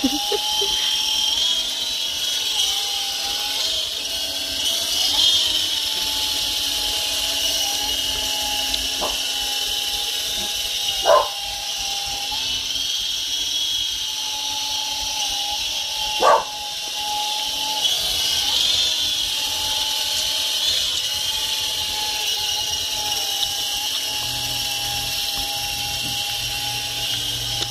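Small 3.5-channel electric RC helicopter hovering: its motor and rotors whine and hiss steadily, the whine's pitch wavering up and down with the throttle. Two short, sharp, louder sounds cut in about eleven and sixteen seconds in.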